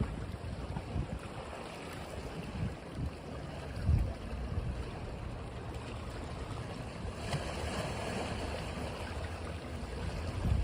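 Ocean waves washing on a beach, with wind buffeting the microphone in low rumbles. A wave surges in a little louder about seven seconds in.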